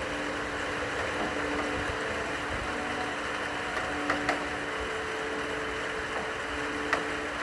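Steady rain with a few sharp drip clicks, about four seconds in and again near the end, over slow, long-held cello notes.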